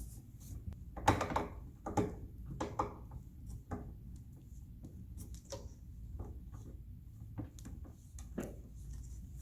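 Hard plastic dollhouse parts being handled and fitted together: irregular clicks and knocks, the loudest about a second in and again at two seconds, over a low steady hum.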